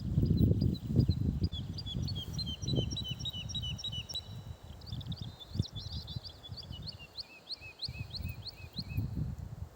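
Several songbirds singing in spring woodland, rapid repeated high chirping notes running together. Underneath is an irregular low rumble, loudest in the first second.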